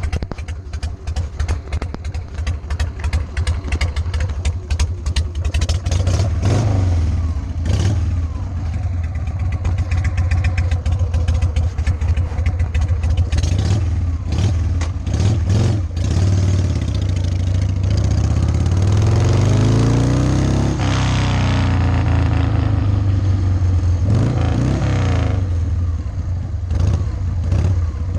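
Carbureted Harley-Davidson Sportster 883 V-twin on open drag pipes, running with a fast, rough firing pulse. It then accelerates hard, the pitch climbing about two-thirds of the way through and again a few seconds later.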